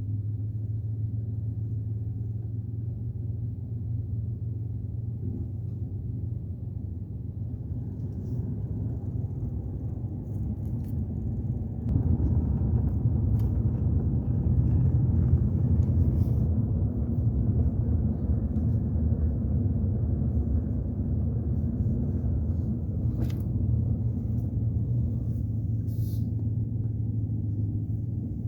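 A vehicle being driven: a steady low engine-and-road rumble that gets louder about twelve seconds in.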